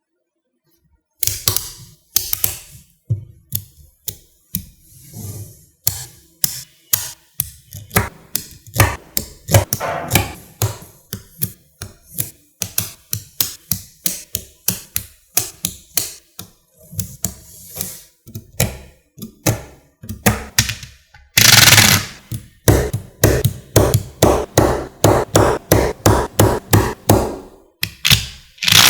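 Small magnetic balls clicking and snapping together as they are set into place, in quick irregular runs of sharp clicks starting about a second in, with a louder rattling clatter about two-thirds of the way through.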